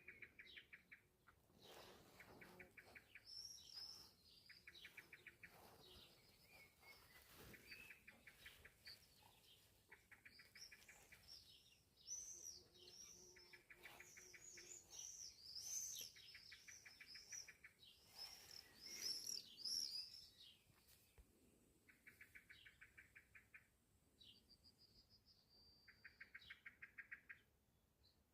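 Faint birdsong: several birds chirping, with a short rapid trill repeated every few seconds.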